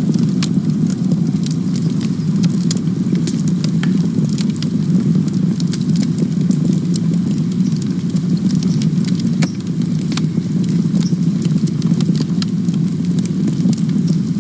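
Campfire burning: a steady low rumble of flame with frequent sharp crackles and pops from the burning wood, several a second.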